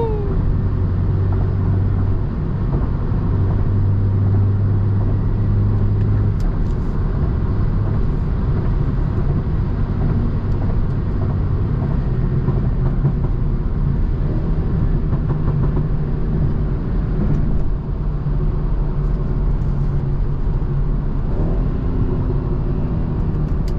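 BMW 330i's tuned 2.0-litre turbocharged four-cylinder engine and road noise heard from inside the cabin while driving, a steady drone whose pitch shifts up slightly a few seconds in.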